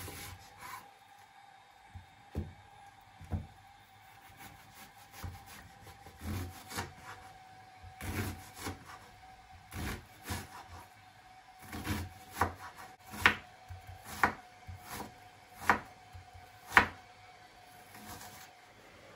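Kitchen prep work on a wooden surface: irregular knocks and rubbing, with the louder knocks coming in the second half, over a faint steady hum.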